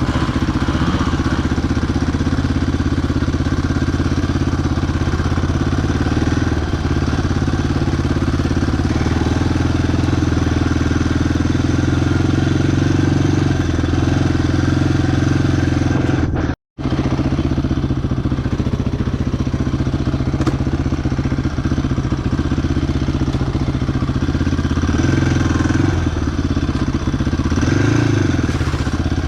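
Quad bike engine running steadily at a fairly even speed, with a brief total cut in the sound about two-thirds of the way through.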